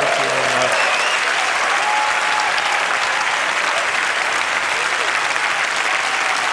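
Large audience applauding steadily, with a few voices calling out within it.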